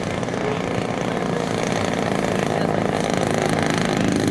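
Gasoline engine of a giant-scale radio-control model airplane running steadily and growing gradually louder.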